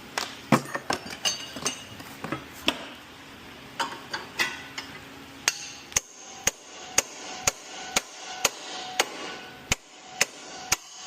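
Hammer striking metal on the front suspension during a lower control arm removal: an uneven run of blows, then steady blows about two a second, several leaving a short metallic ring.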